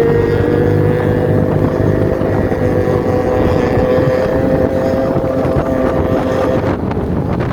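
Kawasaki ZX25R's 250 cc inline-four with an aftermarket undertail exhaust, running at high revs with a steady, slowly rising note. Near the end the note breaks briefly, then picks up again at a lower pitch.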